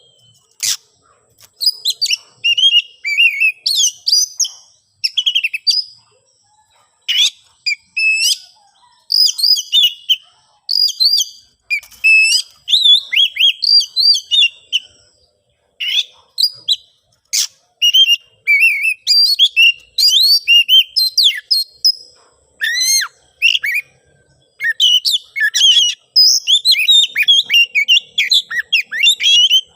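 Oriental magpie-robin (kacer) singing loud, fast, varied phrases of whistles, trills and sharp clicky notes in bursts with short pauses between them. It is the agitated fighting song a male gives when looking for a rival.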